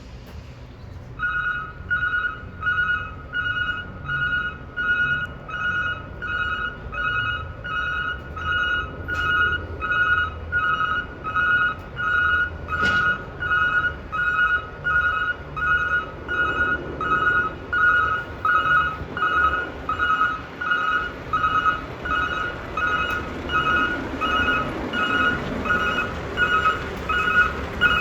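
Truck reversing alarm beeping steadily, a little faster than once a second, over the low running of the roll-off truck's diesel engine: the truck is backing up.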